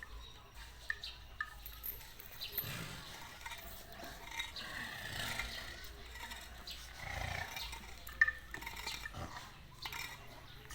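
Elephants moving and breathing, with scattered small knocks and a low rumbling sound about seven seconds in.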